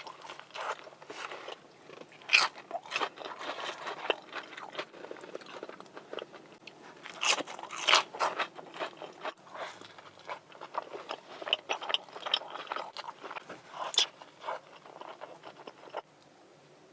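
Close-miked eating: crisp crunching bites into a fried chicken burger and wet chewing, in irregular bursts with a few louder crunches, then cutting out shortly before the end.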